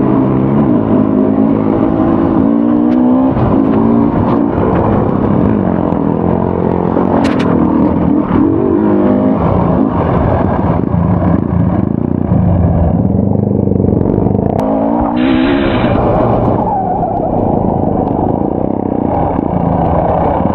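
Enduro motorcycle engine ridden on a dirt trail, its pitch rising and falling again and again as the throttle opens and closes.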